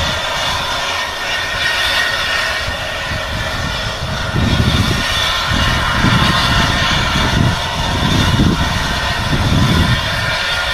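Class 24 2-8-4 steam locomotive with its train of wagons, running with a steady mechanical noise. From about four seconds in, a heavier low rumble pulses roughly every second.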